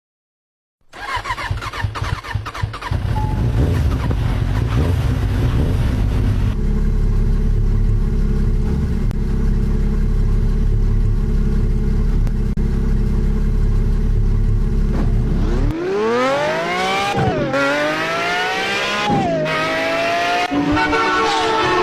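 An engine starts and runs with a steady deep rumble. Near the end it revs up and down several times with a rising, high-pitched whine.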